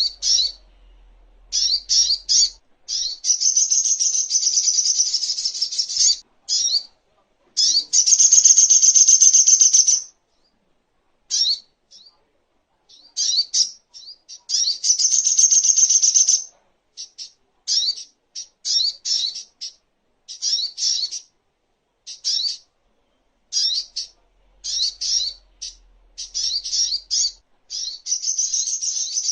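Spiderhunter (sogok ontong) singing: quick runs of sharp, high-pitched chirps alternating with several long, fast trills of two to three seconds each, with short pauses between phrases.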